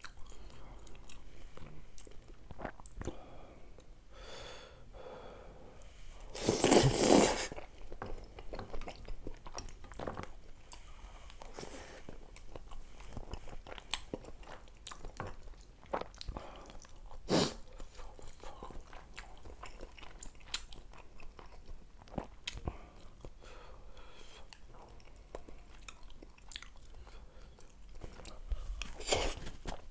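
A person chewing and biting food close to the microphone, with many short sharp clicks. A louder noisy burst comes about seven seconds in.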